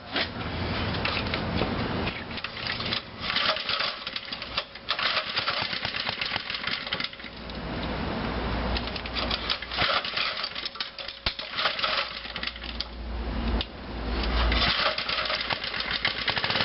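Small single-cylinder engine of a Montgomery Ward mini bike being cranked to start after sitting for two years: several stretches of fast mechanical rattling with low rumbling bursts between them.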